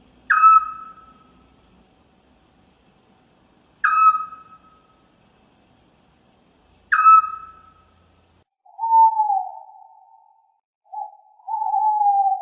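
Owl calls: three short, sharp calls a few seconds apart, each dropping quickly in pitch, then two longer, lower, wavering hoots near the end.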